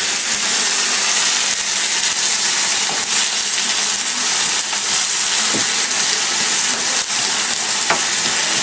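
Corn tortillas frying in hot oil in a pan: a loud, steady sizzle.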